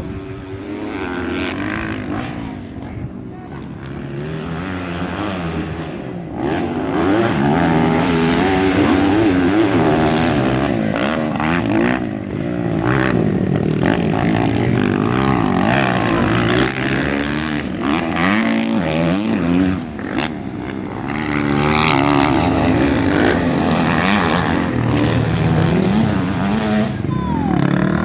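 Several racing motorcycle engines revving and changing gear, their pitch rising and falling as bikes pass. They grow louder about a quarter of the way through and stay loud.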